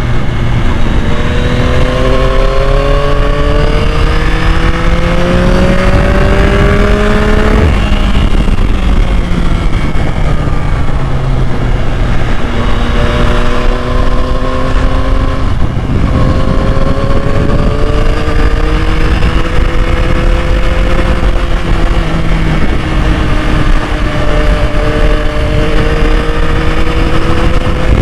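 2021 Yamaha MT-09's inline three-cylinder engine pulling under way. Its pitch climbs, falls back about 8 and 16 seconds in, then rises slowly again. A steady low rumble runs underneath.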